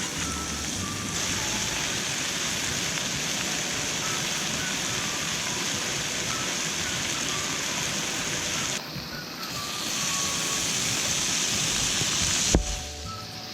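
Steady rushing of a mountain stream, dipping briefly about nine seconds in, with a single sharp click near the end.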